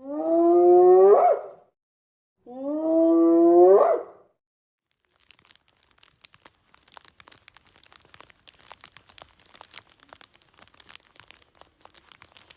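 An animal calls twice, each call a drawn-out cry about a second and a half long that bends upward in pitch at the end. After that comes a faint, irregular crackling and crunching.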